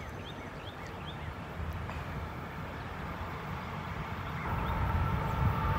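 Approaching freight train, its low rumble growing steadily louder, with the locomotive's horn starting to sound faintly about four and a half seconds in. A few bird chirps in the first second or so.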